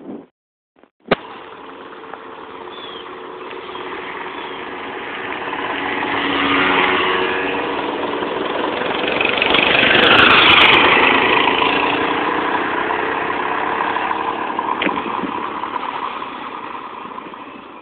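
Small-engined two-wheeler approaching and passing by. Its engine note builds to its loudest about ten seconds in, then fades away.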